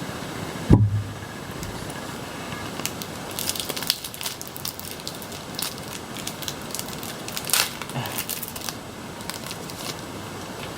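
A foil Pokémon booster pack wrapper crinkling and crackling as it is torn open and handled, in two bursts of sharp crackles. A single dull thump comes about a second in.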